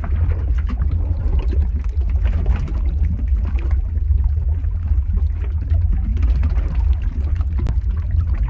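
Lava-flow ambience sound effect: a deep, steady rumble with dense crackling and popping.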